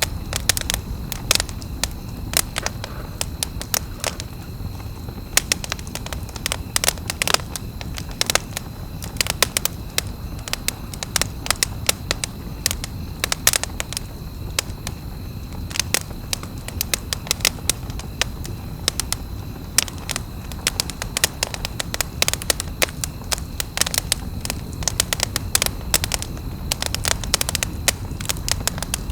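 Wood campfire crackling: frequent, irregular sharp pops and snaps over a low, steady rumble of burning.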